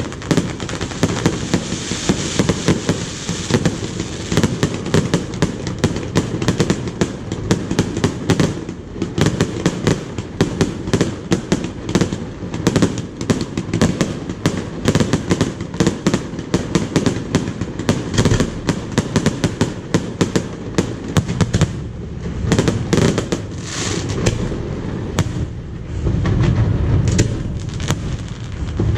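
Fireworks display with a dense, continuous barrage of bangs and crackling.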